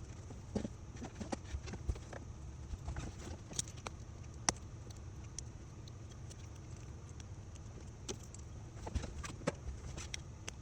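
Scattered light clicks and taps at irregular intervals, the sharpest about four and a half seconds in, over a steady background hum.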